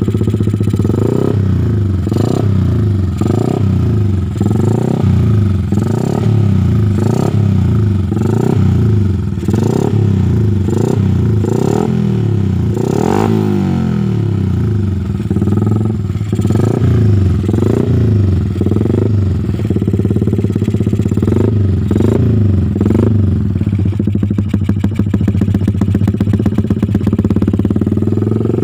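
Yamaha Jupiter MX 135's single-cylinder four-stroke engine breathing through an aftermarket racing exhaust (Creampie CP3 model), blipped over and over in quick throttle revs about one to two a second. There is one longer rev about 13 seconds in, and it settles to a steady idle for the last few seconds.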